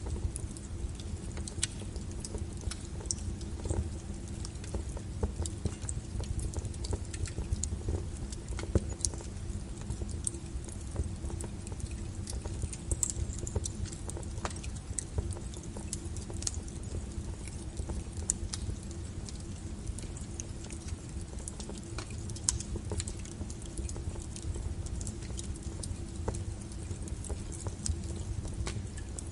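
Wood fire burning: frequent irregular sharp crackles and pops over a low, steady rumble.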